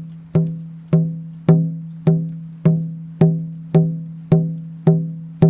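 Handmade hand drum struck with a beaver-chewed stick beater in a steady beat, a little under two strokes a second. Each stroke rings with a low, resonant tone that dies away before the next, an even lead-in pulse for a song.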